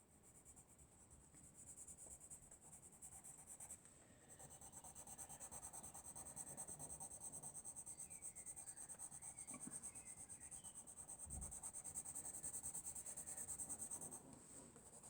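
Soft pencil scratching on paper in quick, quiet back-and-forth strokes, with a brief pause about four seconds in.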